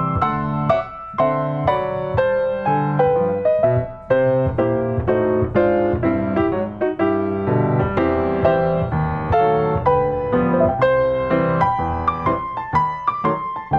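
Background piano music, a steady stream of struck notes.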